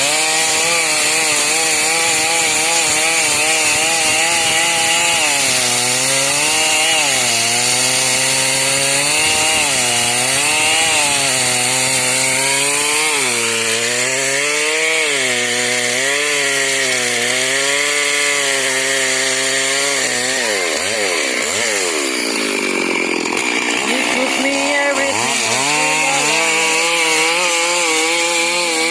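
Stihl MS 382 two-stroke chainsaw running at high revs as it cuts through wood, its engine note repeatedly dipping and recovering as the chain bogs under load and frees up. About two-thirds of the way through the pitch sweeps well down and then climbs back up.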